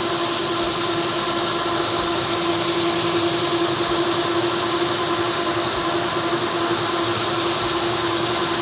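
Bona FlexiSand PowerDrive gear-driven floor buffer running steadily while sanding a hardwood floor: a constant machine hum with a strong steady drone.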